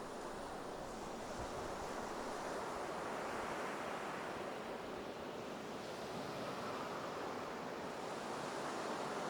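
Ocean surf washing on a beach: a steady rush of waves that slowly swells and eases, building twice.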